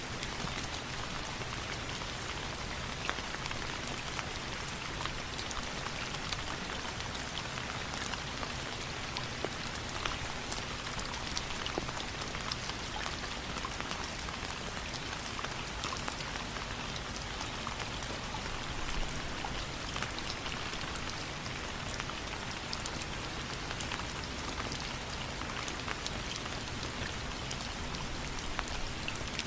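Steady rain falling, an even hiss with many scattered sharp ticks.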